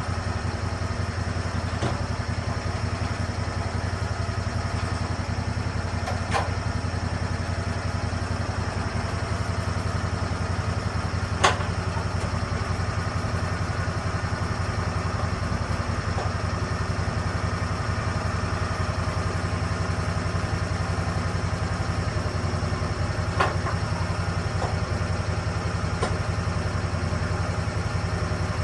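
Lucas Mill sawmill engine running steadily at an even speed, with three sharp knocks over it, the loudest about eleven seconds in.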